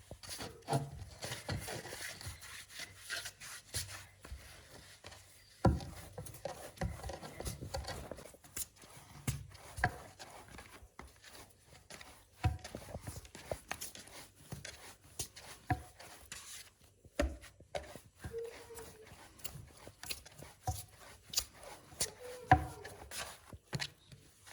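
Irregular knocks, taps and rubbing of hand food preparation, coming in uneven runs with short pauses.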